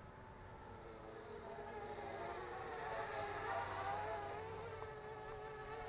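Parrot Bebop 2 quadcopter's propellers and motors buzzing in flight, a steady high hum that grows louder to a peak about two thirds of the way through, then eases off a little, its pitch wavering slightly.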